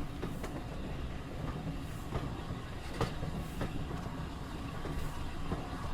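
A train rolling on rails: a steady low rumble with irregular clicks of the wheels over the rails.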